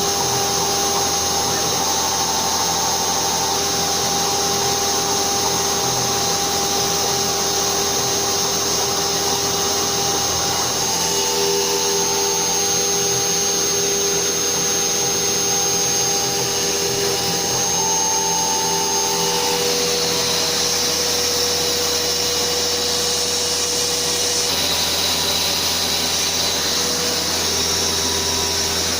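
CNC 6040Z router at work on a printed circuit board: its spindle and the dust-extraction vacuum run steadily, while the stepper-motor whine changes pitch every few seconds as the axes move.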